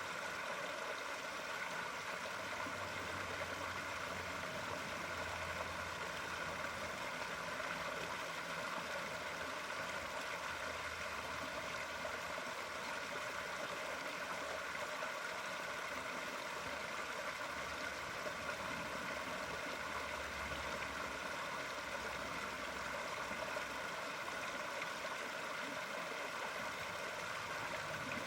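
Steady running water, an even rushing and gurgling with no break or change.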